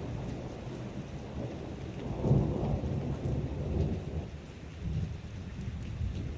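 Heavy rain falling steadily, with a low rumble of thunder swelling about two seconds in and fading over the next couple of seconds.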